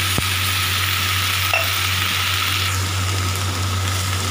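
Vegetables and masala sizzling in a hot frying pan as a little water is poured in; the hiss weakens about two-thirds of the way through while a wooden spatula stirs, with a sharp click just after the start. A steady low hum runs underneath.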